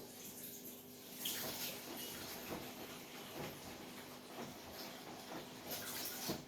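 Beko 10 kg washing machine mid-wash on bedding and towels: water and wet laundry sloshing in the turning drum in repeated brief swells, over a steady low hum.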